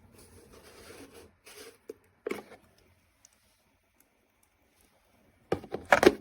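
Handling noises: rustling at the start, a sharp knock about two seconds in, then a loud cluster of knocks and clatter near the end.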